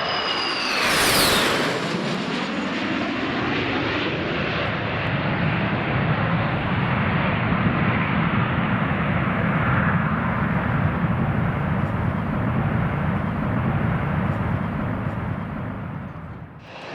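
Airbus C295M twin-turboprop at takeoff power passing close by, its propeller and engine tones falling in pitch as it goes past about a second in, then a steady, loud propeller drone as it climbs away.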